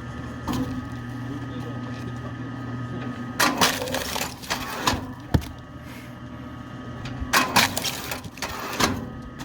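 Belt-driven kinetic log splitter (KM Grand SF-10) with its 1500 W electric motor running steadily, and loud cracking and splintering as its wedge splits oak logs: one split about three and a half seconds in, another around seven and a half seconds in, with a shorter crack near the end.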